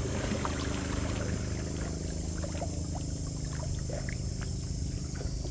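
Water trickling and dripping, with many small splashes from kayak paddling, over a steady low rumble.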